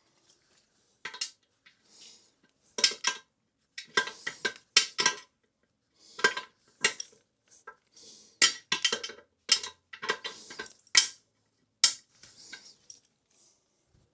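Short, irregular bursts of metallic clicking and clinking from a wrench working the nuts on a toilet's floor bolts, tightening the bowl down until it is snug and does not move.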